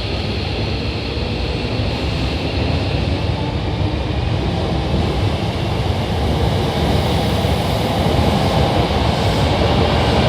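Hankyu 8000 series electric train pulling out of the station, a steady running rumble of wheels on rail that grows a little louder. A faint motor whine climbs gently in pitch in the second half.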